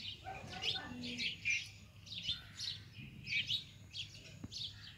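Small birds chirping, quick high twittering calls several times a second.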